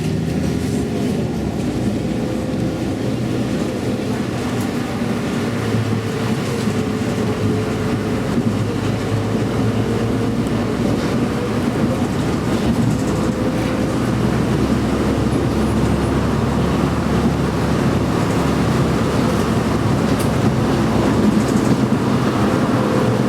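Steady running noise inside a moving public-transport vehicle, a low rumble with a faint motor whine that slowly drifts in pitch.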